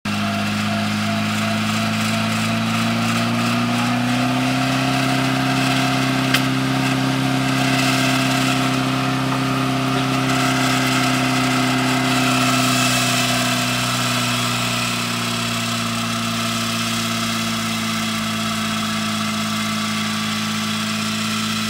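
Pickup truck engine held at steady high revs while it spins a flat tire in place. The pitch rises a little about four seconds in and eases down around fifteen seconds. There is one sharp crack about six seconds in.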